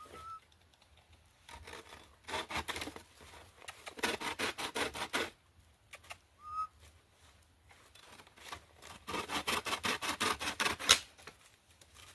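Firewood being sawn by hand: three runs of quick rasping saw strokes, the last the longest, ending about 11 seconds in.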